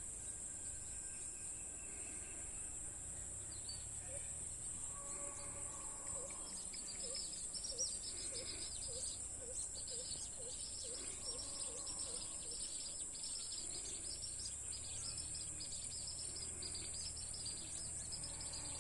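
Outdoor evening ambience: insects hold a steady, high-pitched drone throughout. Birds chirp busily over it from about a third of the way in. In the middle, a low call repeats about twice a second for several seconds.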